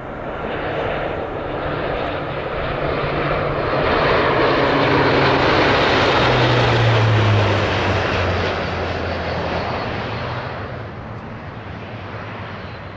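A low-flying airplane passing overhead: the engine noise swells to a peak about six to seven seconds in, drops in pitch as the aircraft goes by, then fades away.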